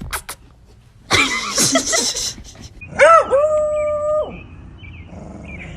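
A dog gives a rough, yelping cry about a second in, then a single long howl from about three seconds in, held steady for over a second before it stops.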